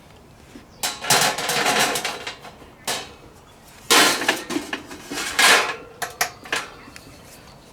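Stainless steel stovetop smoker being handled: metal parts clanking and rattling in several bursts, the last few as sharp clicks.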